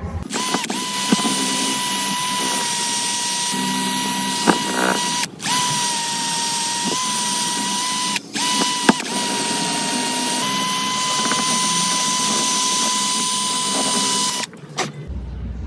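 Hand-held electric power tool running with a steady high whine, briefly stopped and restarted twice, then switched off near the end after a last short burst.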